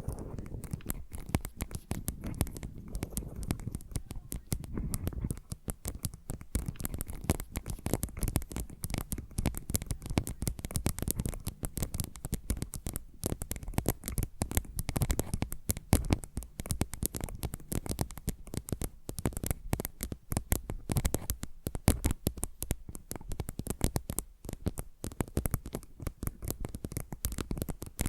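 Fast fingernail tapping and scratching close to the microphone: a dense, unbroken run of quick taps and scrapes over a low rumble of handling noise, with two trigger tracks layered left and right.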